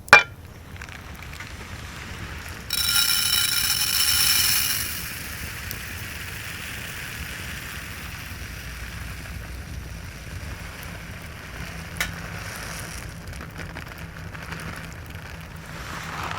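Food sizzling over a wood fire, a steady hiss with a sharp click right at the start. A louder, harsher hiss swells for about two seconds starting near the third second, and there is a smaller click about twelve seconds in.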